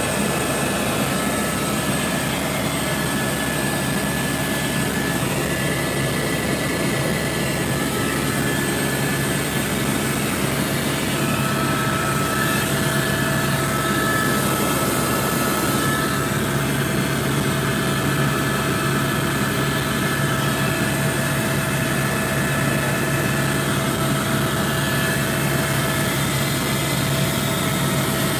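Helicopter engine and rotor noise heard from aboard the helicopter: a steady, loud drone with a few thin steady whining tones in it.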